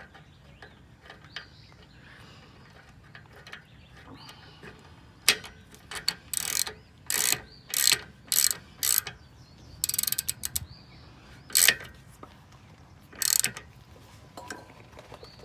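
Ratchet wrench clicking in short strokes as a caliper bracket bolt is tightened down. About seven strokes come roughly half a second apart starting about five seconds in, then a quick run of clicks and two more strokes.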